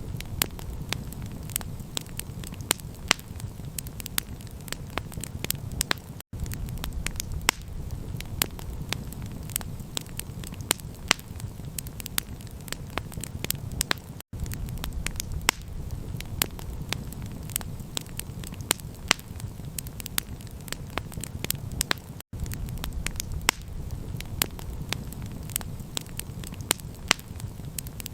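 Campfire crackling: a steady stream of sharp pops and snaps over a continuous low rumble. It cuts out briefly three times, about every eight seconds.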